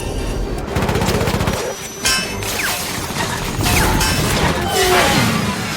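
Film dogfight sound effects. A rapid burst of fighter-jet cannon fire comes about a second in. A sudden crash follows, then jets sweeping past with falling pitch.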